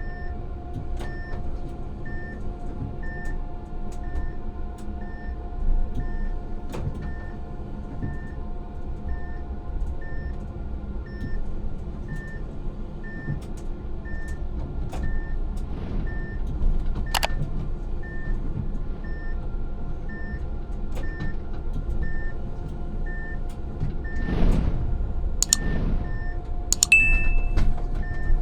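Inside a tram driver's cab: a steady low rumble and hum, with a short high beep repeating about twice a second and scattered clicks. Near the end come a brief whoosh, then a sharp click and a short higher tone.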